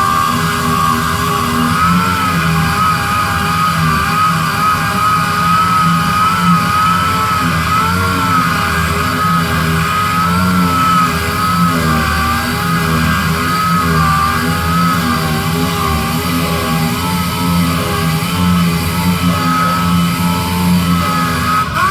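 Power sander running continuously while sanding a surface for primer, its motor whine wavering slightly in pitch as the load on the pad changes.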